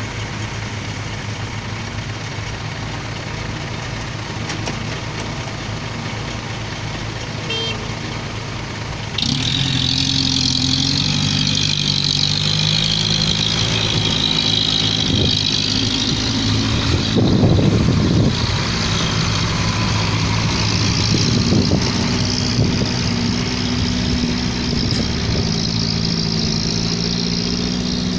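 Dump truck's diesel engine running steadily under way, with road noise. About nine seconds in it grows louder and a higher hiss joins it.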